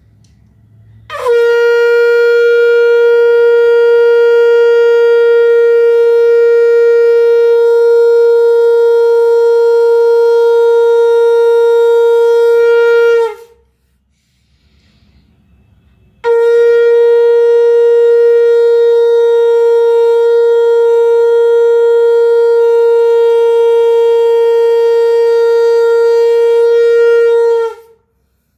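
Conch shell (shankh) blown in two long blasts of about twelve seconds each, a single steady note held throughout, with a pause of about three seconds between them. The first blast opens with a short upward scoop in pitch.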